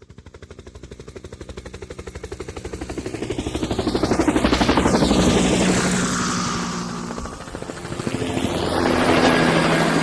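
Helicopter rotor chop, growing louder to a peak about halfway through, dipping, then swelling again near the end.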